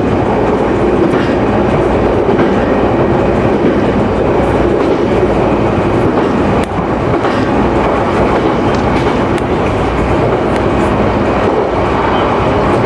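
Electric local commuter train running along the line, heard from inside the front car: a steady rumble of wheels on rail with faint, irregular clicks over rail joints.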